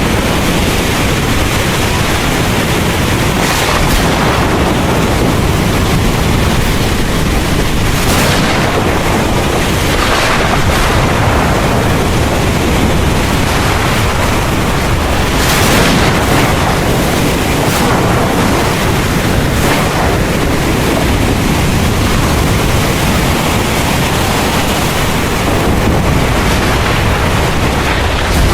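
Heavy rain falling steadily with low rumbling thunder, and several brief louder surges through it.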